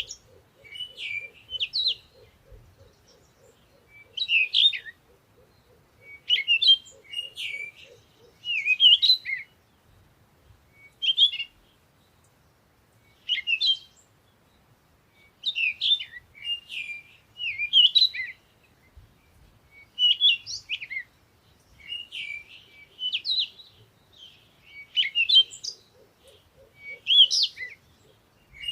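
A songbird singing short, varied chirping phrases, one about every two seconds. A lower, rapidly pulsing call runs underneath for the first eight seconds and returns near the end.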